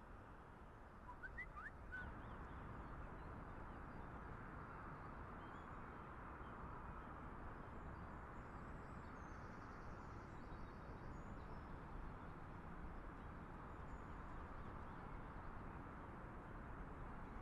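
Faint, steady outdoor background noise, with a few short high chirps about a second in.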